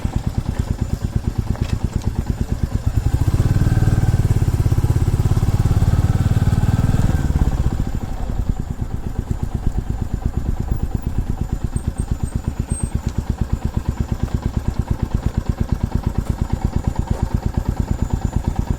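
Single-cylinder motorcycle engine running with an even, regular pulse, louder for a few seconds before dropping back to a quieter steady running.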